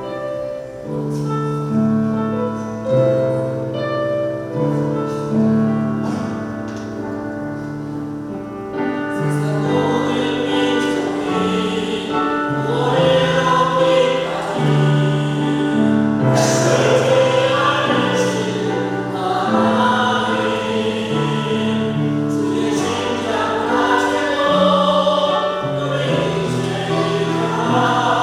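A church group sings a gospel hymn with piano accompaniment. The piano plays alone at first, and the voices come in about nine seconds in.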